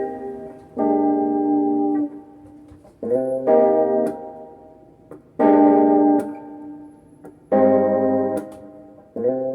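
Electric guitar (Vintage V100 Lemon Drop) played through a Peavey Backstage Plus amplifier: five strummed chords, each held about a second and then cut off short.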